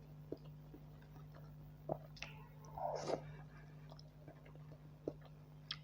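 Close-up eating sounds: chewing and lip smacks on a mouthful of buffalo curry and rice, with scattered sharp wet clicks and a louder smack about three seconds in.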